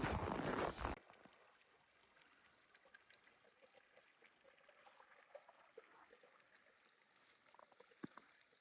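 A steady rushing hiss cuts off abruptly about a second in, leaving near silence with a few faint, scattered clicks.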